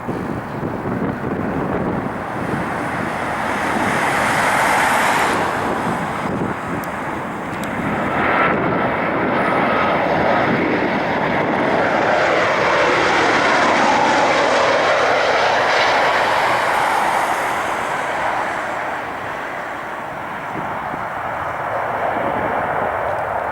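Jet engines of a Boeing 737-800 airliner, a steady loud rushing noise that swells toward the middle and eases off near the end as the aircraft goes by. A faint tone glides down and back up partway through.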